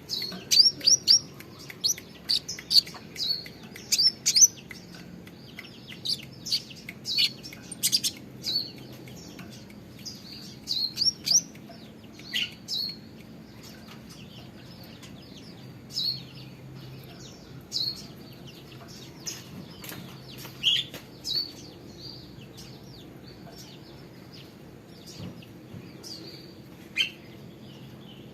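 A small caged songbird, a konin, chirping in quick high-pitched runs of short notes during the first half, then single chirps every second or two.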